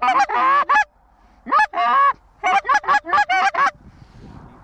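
Loud goose honks and clucks in three rapid bursts, each a string of short pitched notes, trailing off to quiet about a second before the end.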